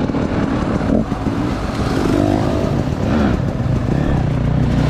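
Enduro dirt bike engine running under throttle while riding, its pitch rising and falling.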